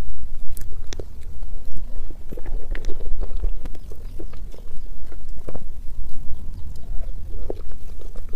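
Close-miked chewing and mouth sounds of someone eating soft cream cake, with scattered small clicks and taps as a spoon cuts into the cake on its plate, over a steady low rumble.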